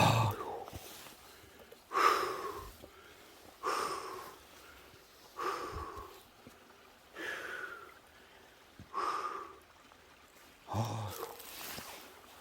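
A person breathing hard while climbing a steep slope: a heavy, forceful exhale about every second and a half to two seconds.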